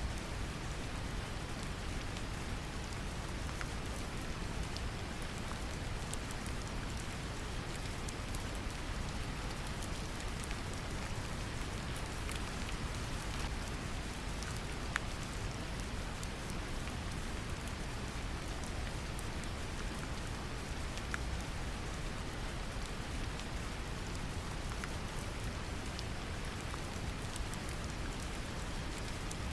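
Steady rain pattering, mixed with a deep, even brown-noise hiss, with scattered faint drop ticks.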